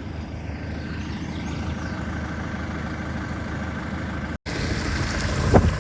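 Diesel engine of a JCB 4CX backhoe loader idling steadily. The sound cuts out for an instant about four seconds in, then the engine carries on.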